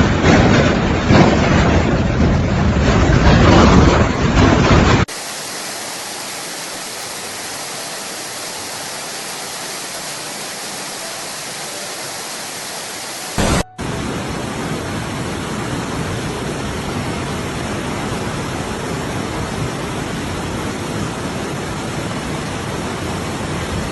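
Storm wind buffeting the microphone with a deep rumble, then, after an abrupt cut about five seconds in, a steady even hiss of storm noise. About halfway through there is a brief loud burst and a momentary dropout before the steady hiss resumes.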